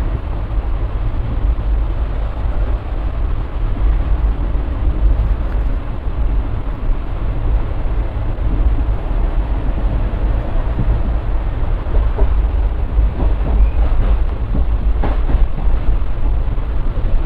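Steady low rumble of a moving passenger train heard from on board, its wheels running on the track, with a few short knocks in the last few seconds.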